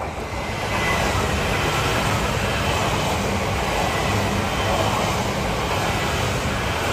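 E3 series Shinkansen train passing at speed on the Yamagata Shinkansen line: a rush of wheels on rail and air noise. It swells over the first second as the lead car arrives, then holds steady as the cars go by.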